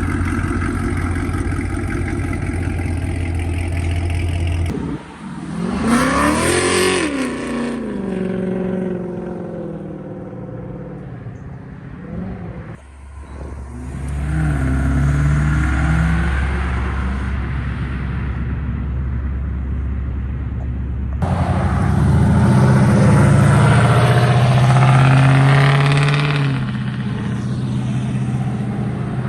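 Car engines: a Camaro idling, then a sharp rev about six seconds in that climbs and falls back. Engines then run and pull away, loudest between about 21 and 26 seconds.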